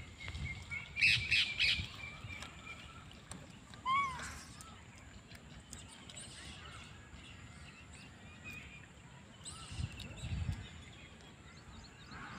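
Outdoor birds chirping and calling: a quick burst of chirps about a second in, then a single short rising-and-falling call at about four seconds, with scattered fainter chirps after.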